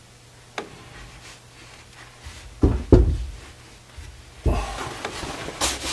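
Work handling noises: a few light knocks and clunks, then rustling and shuffling near the end.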